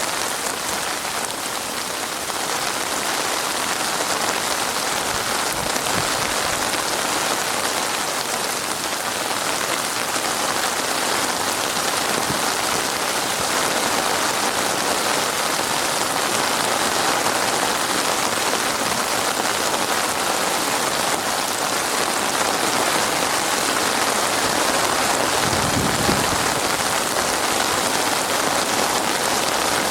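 Heavy rain falling and pattering steadily on a surface, with a brief low thud about 26 seconds in.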